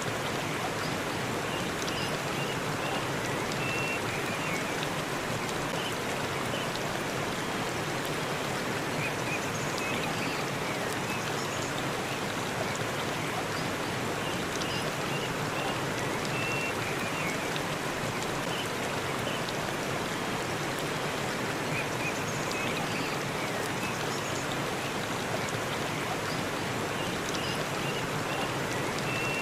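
Waterfall in a forest, water rushing and splashing in a steady, unbroken stream.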